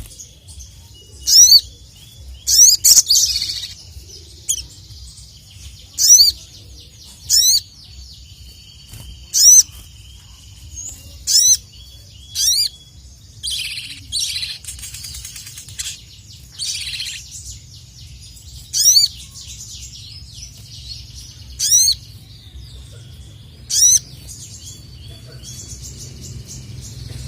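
A sogon (sogok ontong sunbird) singing in full voice: loud, very high, quick sweeping calls repeated every second or two, with a denser chattering stretch about halfway through. A steady low hum runs underneath.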